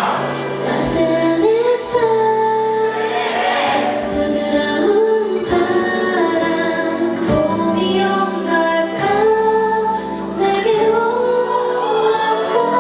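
K-pop girl-group song performed live, with female voices singing held, sliding notes over the backing track.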